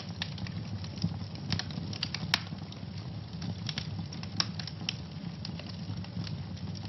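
Wood fire burning in a fireplace: irregular sharp crackles and pops over a steady low rumble of the flames, with one louder pop about two and a half seconds in.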